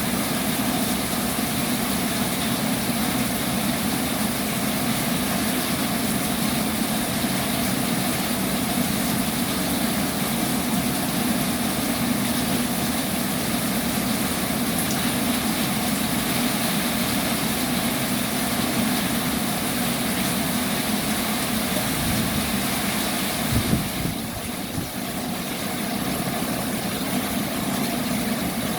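Heavy rain falling, a steady hiss and patter. About three quarters of the way through there is a single dull thump, after which the hiss eases for a couple of seconds.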